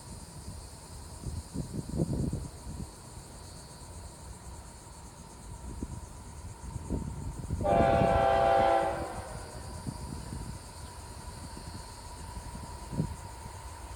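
Diesel freight locomotive's air horn sounding one chord lasting about a second and a half, about halfway through, over a low, uneven rumble.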